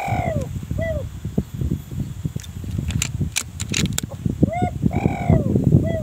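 Strong wind buffeting the microphone in gusts, with a bird giving short arched calls several times, and a few faint high clicks about halfway through.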